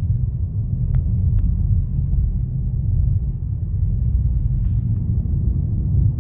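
Car driving, a steady low rumble of road noise. A faint click about a second in.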